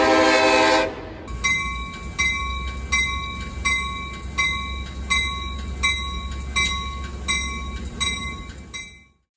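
A train horn sounds a sustained chord and cuts off about a second in. Then a train bell rings steadily, about one strike every three-quarters of a second, over a low engine rumble, and fades out near the end.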